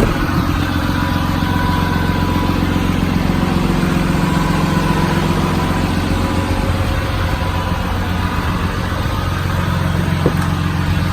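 2010 Ram 5500 work truck's 6.7-litre Cummins turbo-diesel idling steadily.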